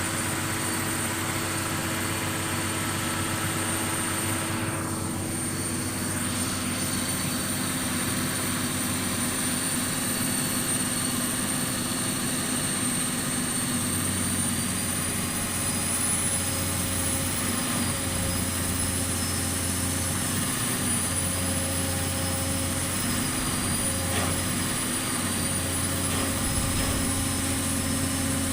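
Pile-driving machine's engine running steadily, with no hammer blows heard; its note rises and falls a few times in the second half.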